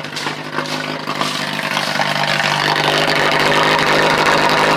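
1983 Ford Ranger engine idling, heard at the tailpipe; the exhaust note grows louder over the first few seconds, then holds steady. The catalytic converter was broken apart by a rock strike, which the owner gives as the explanation of the exhaust sound.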